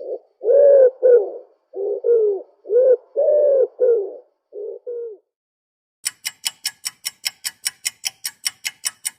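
A run of about eight short, arched cooing calls from a bird. About a second after they stop, a clock ticks about five times a second.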